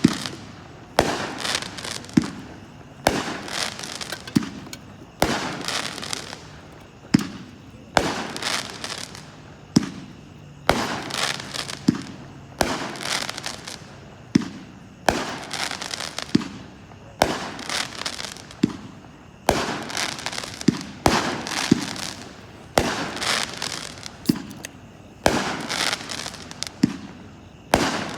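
A 25-shot consumer firework cake firing shot after shot, about one a second. Each shot is a sharp bang followed by a hissing, crackling trail that fades before the next.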